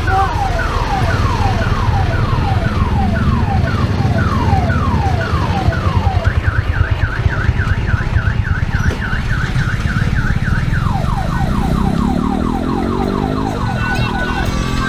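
Electronic multi-tone siren horn on an odong-odong tourist mini-bus, cycling through its patterns. First it gives repeated falling wails about two a second, then a fast up-and-down warble, then rapid falling chirps. Under it the vehicle's engine rumbles steadily and revs up near the end.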